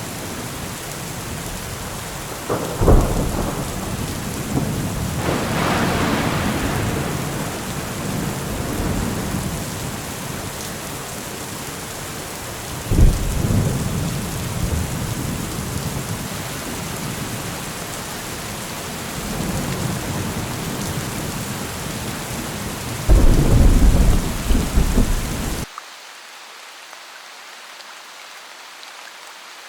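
Heavy rain with rolls of thunder: sharp cracks about 3, 13 and 23 seconds in, each followed by a long rumble, the loudest near the end. About four seconds from the end the thunder and low rumble cut off suddenly, leaving a thinner, quieter rain hiss.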